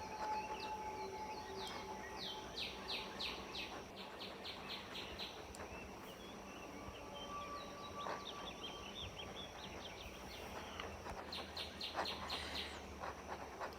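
Birdsong: a bird repeats quick runs of short, downward-sweeping high notes, once about three seconds in and again near the end, over a steady high hiss.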